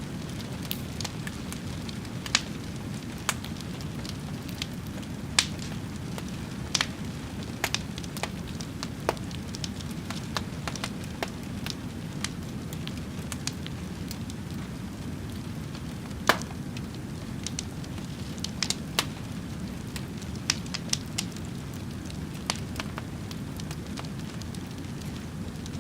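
Wood fire burning: a steady low rumble with frequent irregular sharp crackles and pops.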